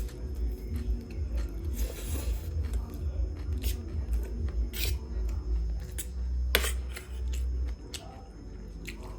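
Close-miked eating sounds: wet chewing and smacking with a few short, sharp clicks about a second apart, over a low rumble.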